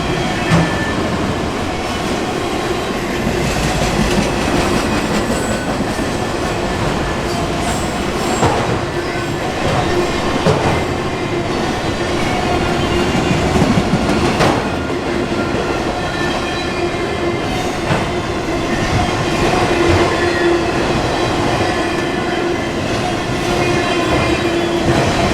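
Freight train's auto rack cars rolling past: a steady rumble of steel wheels on rail, with a faint steady squeal and occasional sharp clacks over rail joints.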